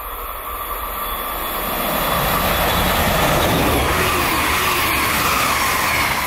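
Stadler KISS double-deck electric multiple unit passing at speed, growing louder over the first few seconds, then a steady rush of wheels on rail as the cars go by.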